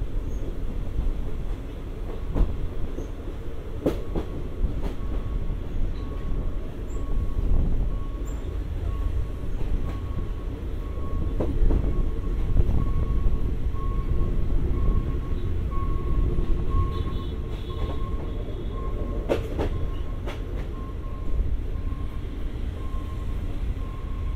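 Passenger train of the State Railway of Thailand running, heard from inside the carriage: a steady rumble of the wheels on the track, with a few sharp knocks and a thin steady whine.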